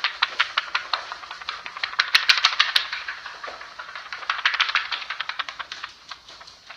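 A rapid run of sharp clicks and taps, several a second, loudest about two to three seconds in.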